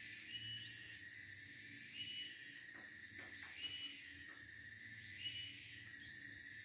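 Siberian blue robin calling: thin, high whistled notes that sweep quickly up and down, each with a short flat lower note, repeated about once a second.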